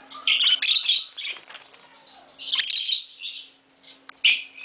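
Lovebirds chirping in quick, high, scratchy clusters, with a burst near the start, another a little past halfway, and a short one near the end.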